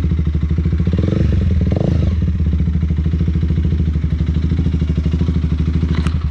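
Motorcycle engine running steadily at low speed close to the microphone, its firing pulses even. There is a brief rise in revs a second or two in, and the sound stops abruptly at the very end.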